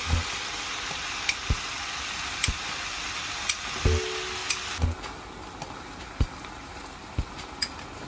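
Food sizzling in a frying pan, a steady hiss that drops away about five seconds in. Light background music with soft low beats and high plinks plays over it.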